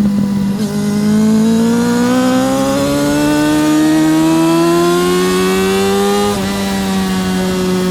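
Yamaha R6 (RJ03) inline-four racing engine under hard acceleration. The revs climb steadily for about six seconds, then drop sharply on an upshift and start climbing again.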